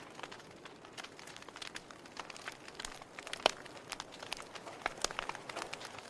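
Wood fire burning in a fireplace: a steady soft hiss with irregular crackles and sharp pops, one loud pop about three and a half seconds in.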